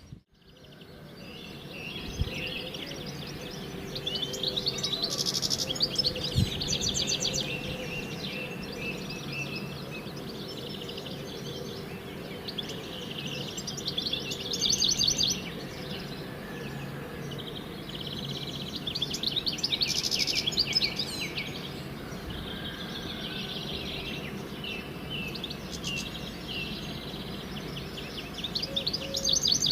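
Songbirds singing, with phrases of rapid high notes every few seconds over a faint, steady low hum.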